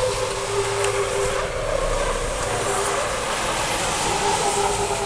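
Steady, loud noise of heavy truck engines running, with faint wavering tones above it.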